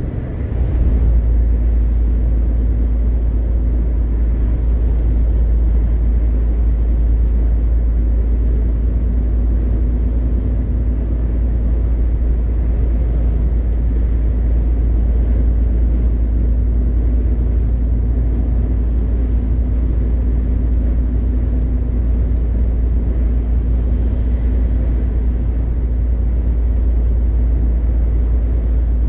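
MAN TGX 520 truck's straight-six diesel running steadily on the road: a deep, even drone with road and wind noise. The level dips briefly right at the start, then holds steady.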